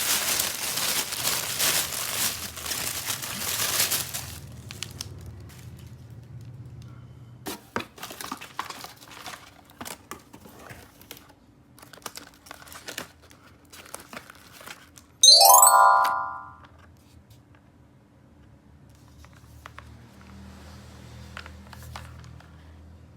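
Plastic packaging crinkling and tearing for about four seconds, then scattered clicks of plastic toy parts being handled. About fifteen seconds in, a toy gives a short, loud electronic chime lasting about a second.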